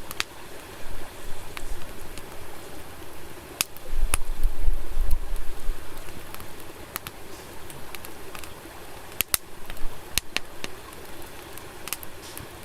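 Wood fire crackling: irregular sharp pops and snaps over a steady low hiss, with a brief low rumble about four seconds in.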